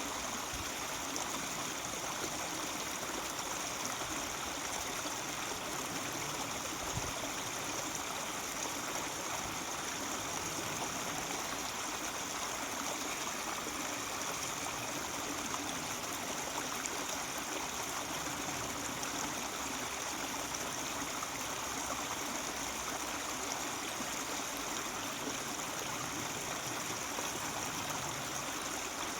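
Mountain stream running and babbling over rocks, a steady, even rush of water.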